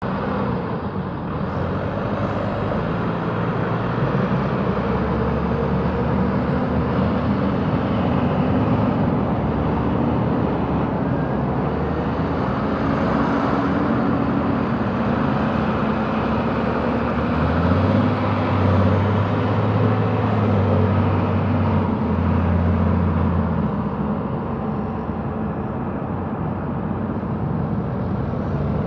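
Several tractor engines running as tractors pull away one after another, a steady mix of engine notes that shift as each goes by. A deeper engine note comes in strongly for several seconds past the middle.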